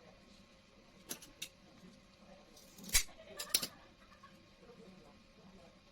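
A few sharp clicks and knocks of small hard objects being handled. Two light clicks come about a second in, then a louder cluster of knocks follows in the middle, the loudest about three seconds in.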